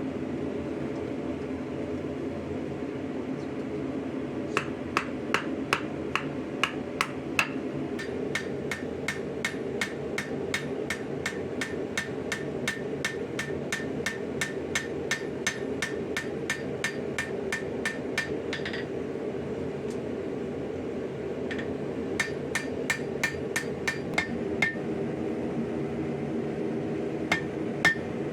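Hammer forging hot 5160 spring steel on an anvil: runs of blows about three a second, each with a short metallic ring, starting a few seconds in. The blows pause twice, after about eighteen seconds and again near twenty-five seconds, over a steady hum.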